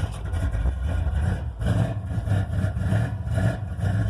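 Small-block Chevy V8 running just after a cold start, through long-tube headers and dual straight pipes with chambered turbo-style mufflers, so the exhaust is loud and lumpy. Its level rises and dips unevenly, with a brief dip a little over a second in before it comes back stronger.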